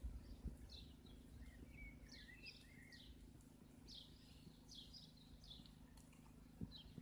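Faint small birds chirping and trilling repeatedly, over a low steady hum, with a few soft thuds.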